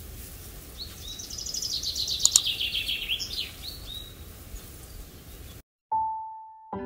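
Birdsong: a fast run of repeated high chirps that swells and fades, then cuts off abruptly. Near the end a single note rings and fades.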